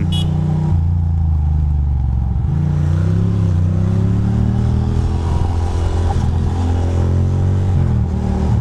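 A 2006 Ducati Monster 620's air-cooled L-twin engine running under way: it pulls steadily, drops briefly about two and a half seconds in, then rises in pitch as it accelerates before settling, with another brief dip near the end.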